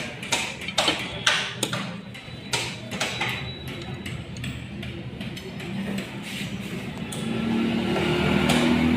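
Sharp metallic clicks and knocks from hand tools on a car gearbox being reassembled, about two or three a second for the first few seconds. A low engine hum grows louder near the end.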